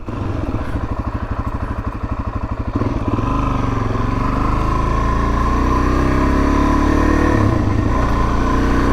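Suzuki DR-Z400S single-cylinder four-stroke engine running at low revs with an even pulse. About three seconds in it picks up, running smoother with its pitch rising as the bike accelerates.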